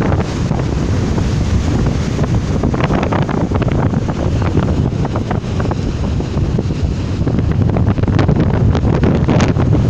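Strong gale-force wind buffeting the microphone: a loud, continuous low rumble with constant crackling gusts.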